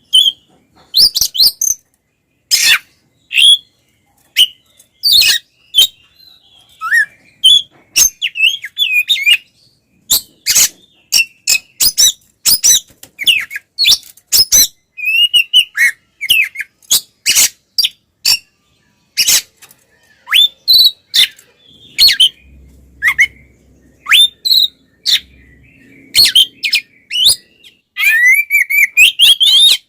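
Oriental magpie-robin (kacer) singing in an agitated, fighting-style song: loud, quick runs of sharp whistles, chirps and harsh chatter broken by short pauses, with a dense run of notes near the end.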